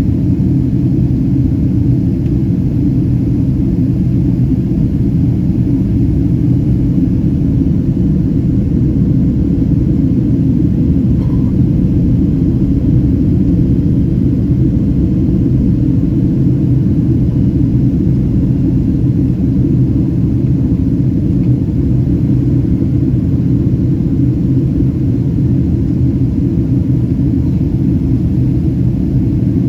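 Boeing 767-332ER cabin noise: a steady low rumble of engines and airflow heard from inside the passenger cabin.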